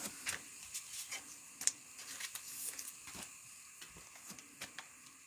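Soft scattered clicks and light rustling of trading cards being handled and sorted.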